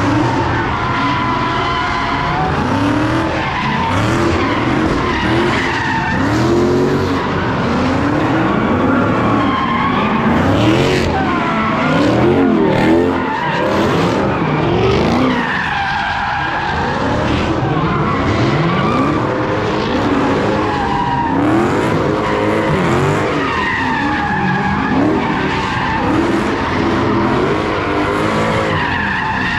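Car engines revving hard, rising and falling again and again, with tires squealing as cars spin donuts.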